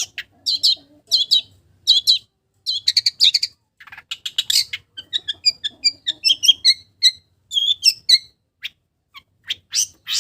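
Long-tailed shrike (cendet) singing: a fast, varied string of short, sharp chirps and trills in clusters, its song filled with mimicked calls of village birds.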